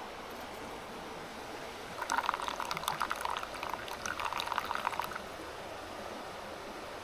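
Liquid being poured, starting about two seconds in and lasting about three seconds with a brief break in the middle, over the steady rush of a mountain stream.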